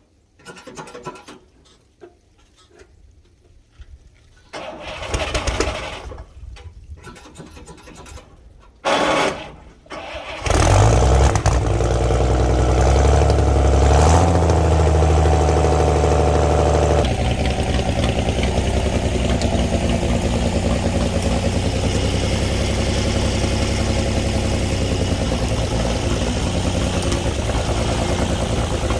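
Old winch truck's engine starting: a few short bursts of noise, then it catches about ten seconds in and runs loudly, rising in pitch briefly before dropping back to a steady run from about halfway through.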